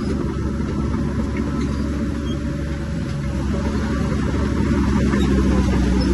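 Heavy earthmoving machinery, such as a bulldozer, running steadily with a low engine drone that grows a little louder near the end.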